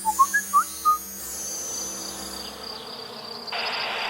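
A few short rising chirps in the first second. About three and a half seconds in, a steady insect drone sets in abruptly.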